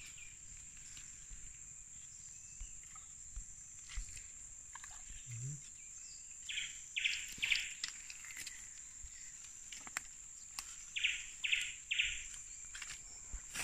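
A bird calling in two short runs of three quick notes, about six and eleven seconds in, over a steady high insect drone.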